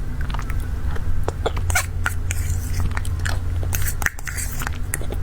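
Close-miked chewing and mouth sounds of a person eating cake: irregular soft smacks and clicks. A steady low hum runs underneath.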